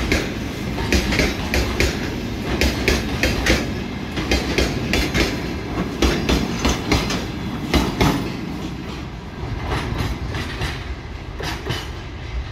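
Freight wagons rolling past, their wheels clacking over rail joints in quick clusters of clicks over a low rumble. The clacking thins out and fades after about eight seconds as the last wagons pass and the train moves away.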